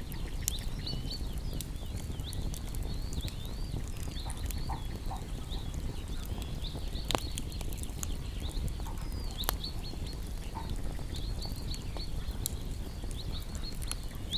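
Small songbirds chirping in quick, continual twittering over a crackling wood fire, with sharp pops from the fire about 7 and 9.5 seconds in.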